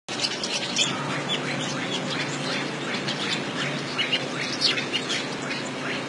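Weaver birds chattering: a dense run of quick, high, downward-sweeping chirps, many overlapping, over a steady low hum.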